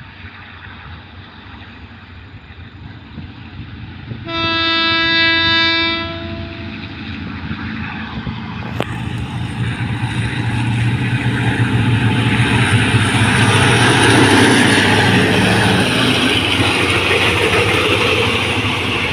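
Hitachi diesel-electric locomotive hauling a container freight train. It sounds one long horn blast about four seconds in, then its engine rumble and the wheels on the rails grow louder as it approaches and passes. The container wagons then roll by.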